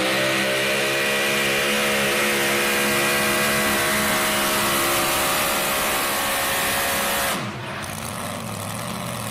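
Super modified four-wheel-drive pulling truck's engine running at full throttle under load, its pitch slowly sagging as the sled bogs it down; about seven seconds in, the throttle drops off suddenly and the engine falls to a quieter run.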